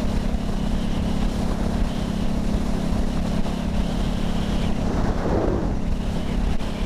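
Motorcycle engine running at a steady pitch, with wind rushing over the microphone.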